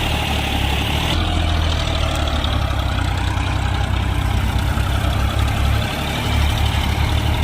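Diesel tractor engine running with a steady low throb.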